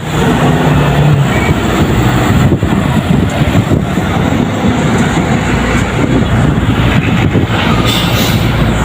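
Heavy truck going past close by: a steady, loud diesel engine rumble mixed with tyre and road noise.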